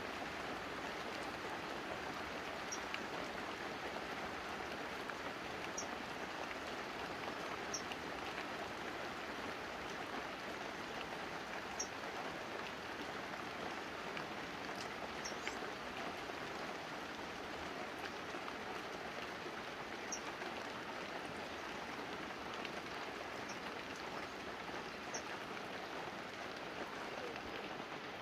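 Steady light rain falling on banana leaves and a roof, an even patter of drops.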